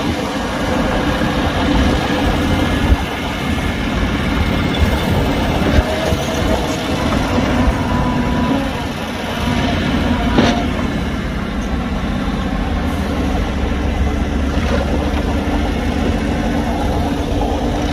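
Heavy diesel earthmoving machinery running steadily with a deep rumble, with a single sharp knock about ten seconds in.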